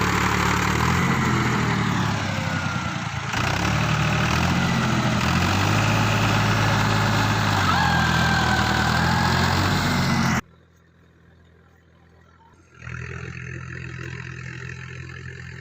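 Tractor diesel engine running hard and revving up and down while trying to drive out of mud. About ten seconds in it cuts off abruptly to near silence for about two seconds, then the engine is heard again, quieter.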